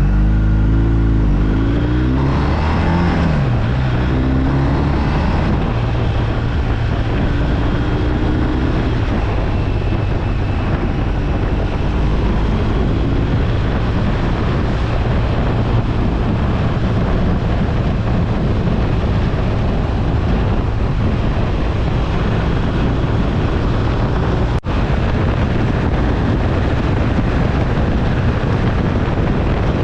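BMW R1250RT's boxer-twin engine pulling the bike along, its pitch rising and falling over the first several seconds. It then settles under a steady rush of wind noise at road speed.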